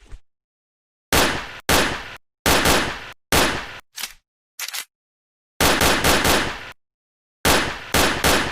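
Gunfire sound effects: a string of loud shots, each with a short decaying tail, some coming in quick pairs and triples, with dead silence between the groups.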